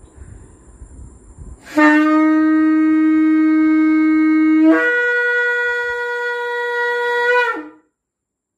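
A horn blown in two long notes, the second higher than the first, ending with a short downward slide.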